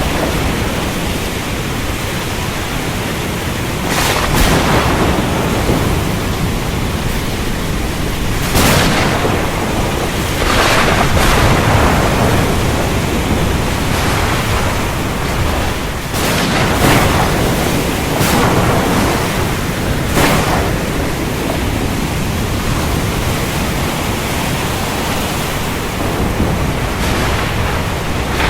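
Heavy rain with thunder: a steady hiss of rainfall broken by sharp thunder cracks every few seconds, several of them clustered in the first two-thirds.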